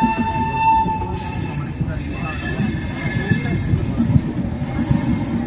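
Passenger train rolling slowly into a station, its wheels rumbling and knocking over rail joints. A steady high-pitched wheel squeal fades out about a second in, and fainter squeals return a little later.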